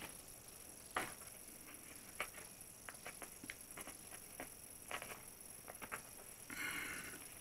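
Faint, scattered clicks and taps of hands handling a small plastic RC model aircraft and its transmitter, with a short rustle near the end.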